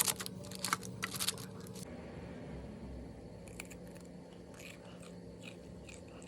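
Crisp food being bitten and chewed, with dense sharp crunches for the first two seconds, then fainter scattered crunches.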